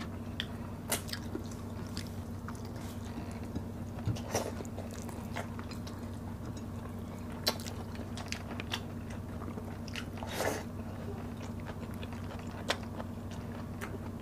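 Close-miked mukbang eating: chewing and biting with scattered short crunches and mouth clicks as fried pompano and vegetables are eaten by hand, over a steady low hum.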